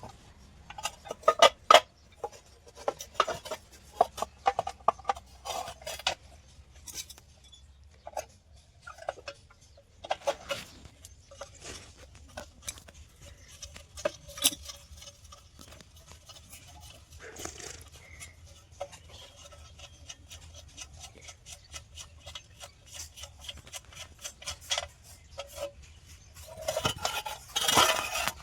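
Irregular clinks and clanks of steel being handled and struck, with a denser, louder run of clanks near the end.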